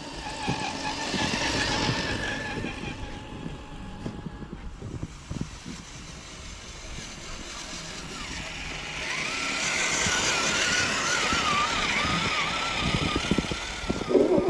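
RC scale crawler's electric motor and gearbox whining as it drives. The whine rises and wavers in pitch in two stretches, one near the start and a longer one in the second half.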